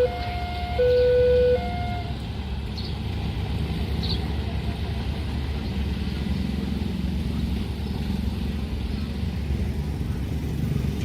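Two-tone electronic warning alarm at a railway level crossing, alternating a low and a higher note about once a second and stopping about two seconds in, over a steady low rumble of vehicle engines.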